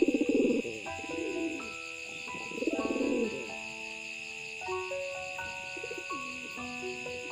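Domestic pigeon cooing, two pulsing low coos: one at the start and one about three seconds in, with a fainter one near the middle. Background music with a simple stepping melody plays throughout.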